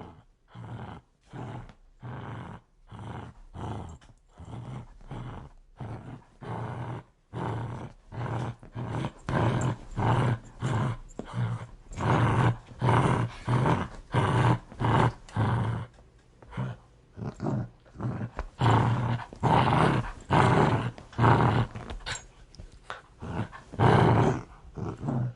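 A dog growling aggressively in a long run of short pulses, about two a second, growing louder about a third of the way in.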